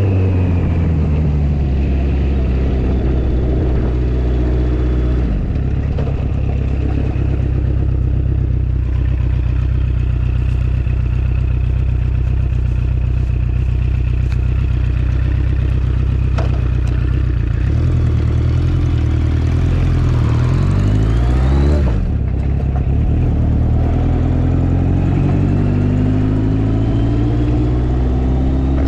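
Motorcycle engine running at road speed. Late on it climbs in pitch, drops sharply as it shifts up a gear, then climbs again as it accelerates.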